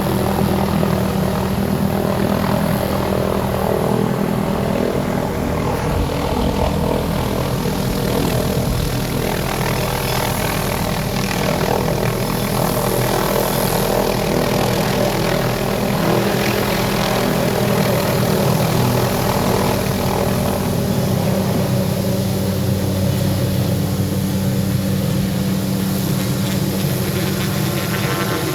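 Aircraft engine running steadily at a constant pitch, a continuous drone with no change in speed.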